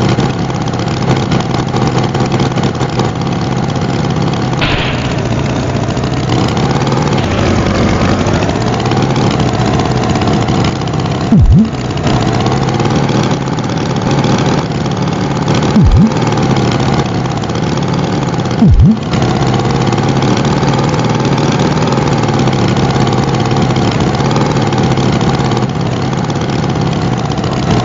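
Tractor engine sound effect running steadily, broken by three brief low thumps.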